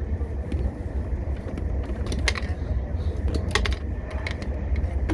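Steady low rumble of a moving train heard from inside the carriage, with a few light clicks scattered through the middle.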